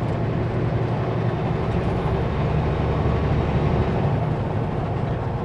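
Kenworth W900L semi truck's diesel engine running steadily while driving, with road noise.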